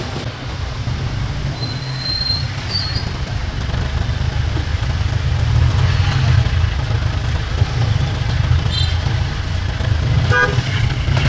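Steady low rumble of street traffic, with a short horn toot about ten seconds in.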